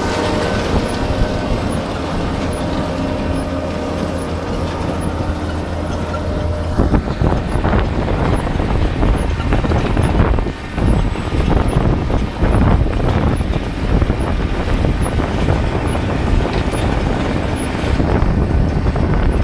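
Dewulf R3000S potato harvester running with a steady engine drone; about seven seconds in, the sound turns into a rougher, uneven rumble and rattle that carries on to the end.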